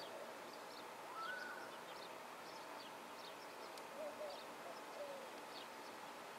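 Faint birdsong: short, high, falling chirps repeated throughout, with a louder whistled note about a second in and lower wavering calls around four and five seconds in.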